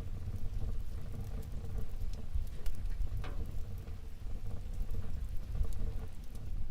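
Wood fire burning in a fireplace: a steady low rumble of flames with scattered crackles and pops, one more marked pop about three seconds in.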